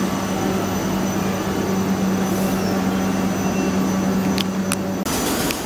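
South Western Railway electric passenger train running past close by, a steady low hum over the rumble and hiss of wheels on rails. Two short sharp clicks come about four and a half seconds in, and just after five seconds the hum cuts off suddenly, leaving a brighter hiss of wheel and rail noise.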